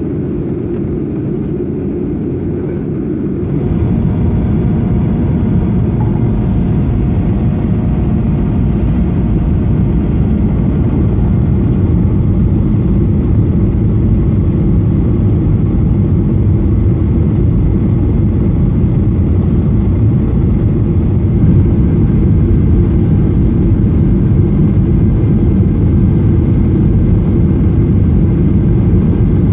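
Cabin noise of a Boeing 737-800 descending to land: a steady low rumble of its CFM56 jet engines and airflow. The level steps up about three and a half seconds in, and a faint steady whine runs for several seconds after that.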